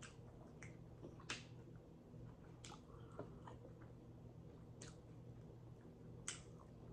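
Quiet close-up chewing of a fried chicken sandwich, with about four sharp wet mouth clicks and a few fainter ones spread through it.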